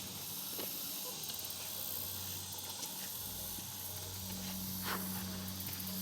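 Steady high-pitched hiss of insects trilling in the trees, with pulsing patches in the buzz. A low steady hum runs underneath.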